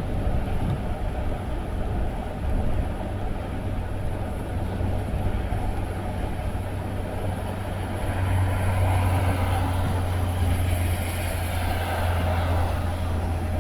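A moving car's engine and road noise: a steady low drone under a broad hiss, growing a little louder about eight seconds in.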